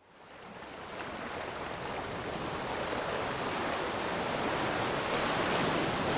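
Steady rush of ocean surf fading in over the first couple of seconds, then holding level.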